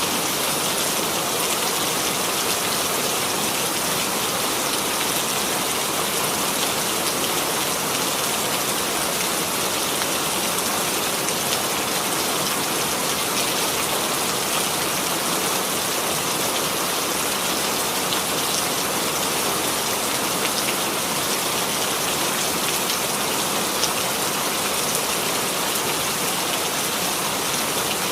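Steady rainfall, an even hiss of rain falling on a surface with faint scattered drop ticks.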